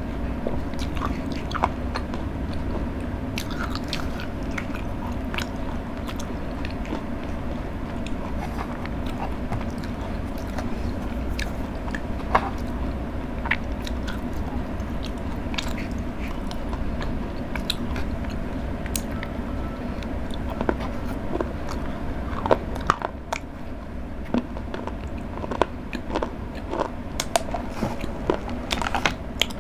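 Close-miked chewing and biting of Cadbury Dairy Milk chocolate, with many short crunchy clicks over a steady low hum. The clicks come more often in the last third.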